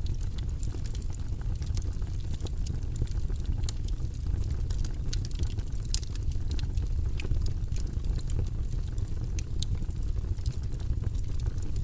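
Fire in a fireplace crackling, with frequent sharp snaps and pops over a low steady rumble.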